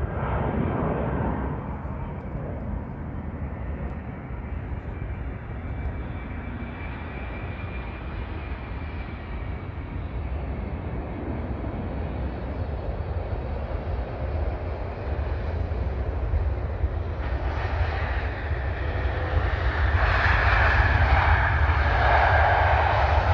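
Airbus A380's four jet engines during landing: a steady deep rumble with a faint high whine, growing louder over the last several seconds.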